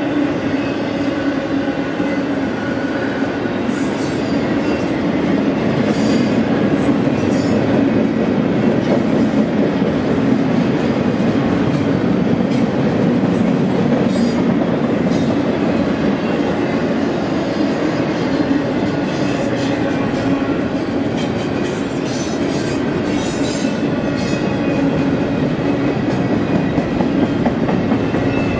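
BNSF double-stack intermodal freight train's container-laden well cars rolling past at a steady pace: a continuous heavy rumble of steel wheels on rail, with scattered clicks and clacks and a faint high wheel squeal at times.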